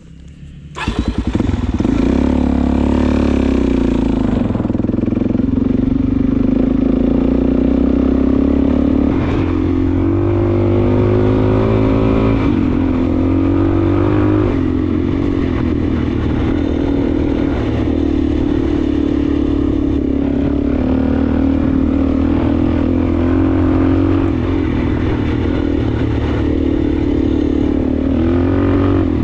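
Suzuki DRZ400S's single-cylinder four-stroke engine pulling away about a second in, then running loud and steady as the bike is ridden, its pitch rising and falling with the throttle, with some clatter from the bike.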